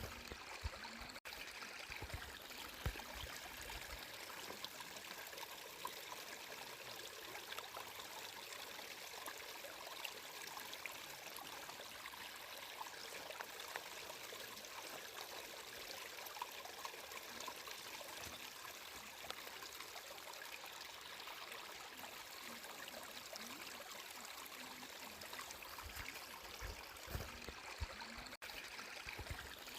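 Water flowing and trickling in a stream, a steady splashing hiss with small droplet ticks, and a few low burbles about a second in and again near the end.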